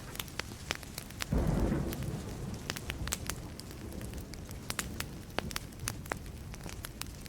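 Burning wood fire crackling, with sharp pops scattered throughout. About a second in, a clap of thunder breaks in, the loudest sound here, and its low rumble fades over the next few seconds.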